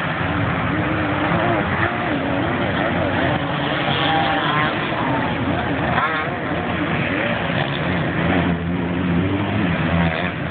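Several motocross bikes racing on a dirt track, their engines revving up and down with constantly wavering, rising and falling pitches that overlap in a continuous din.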